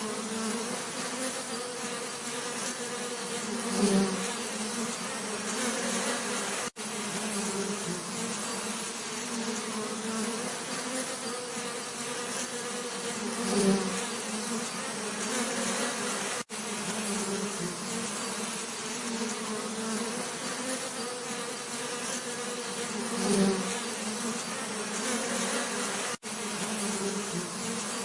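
Bees buzzing in a steady low drone, with a louder buzz swelling up as a bee passes close about every ten seconds, three times. The sound cuts out for an instant three times, at the joins of a repeating loop.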